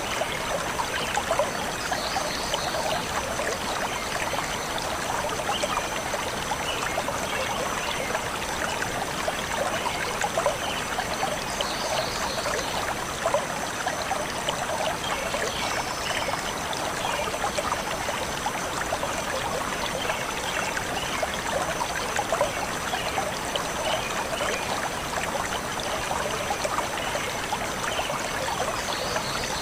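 Shallow stream flowing and trickling steadily over stones, with brief bird chirps here and there above the water.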